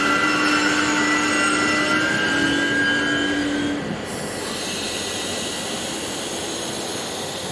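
Regional passenger train hauled by an E 464 electric locomotive moving through a station: a steady electric whine of several tones, stepping in pitch about two seconds in, cuts out about four seconds in. The level then drops to the even rolling noise of the coaches going by.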